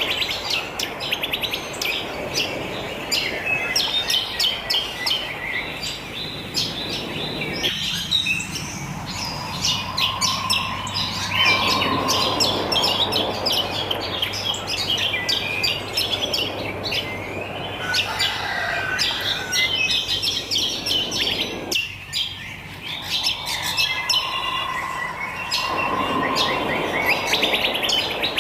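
A chorus of wild birds chirping and singing, many rapid overlapping chirps and trills, over a steady background of outdoor nature ambience.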